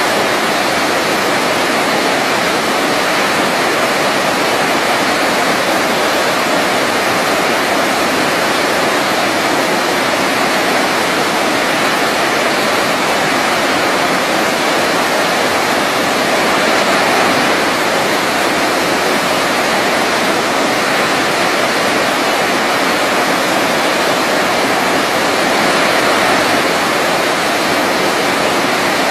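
Waterfall rushing steadily: a constant, even hiss-and-rumble of falling water with no breaks, swelling slightly a couple of times.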